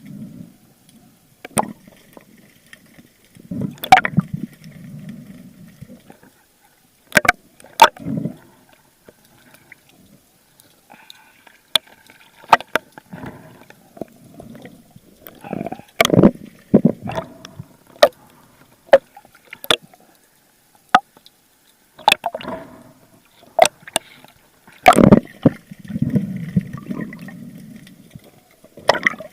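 Water sounds picked up by an underwater camera: gurgling and rumbling movement of water, broken by many sharp clicks and knocks at irregular intervals.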